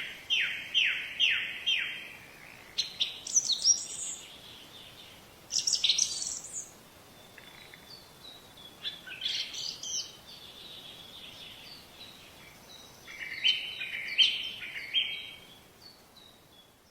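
Songbirds singing in several short chirping phrases. The first phrase is a run of four quick down-slurred notes, and the later ones are bursts of stepped, high chirps.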